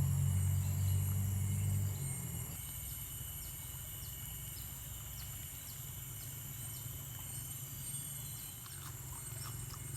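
Rainforest ambience: a steady high-pitched drone of crickets and other insects, with short chirps repeating about once a second. A low rumble drops away about two seconds in.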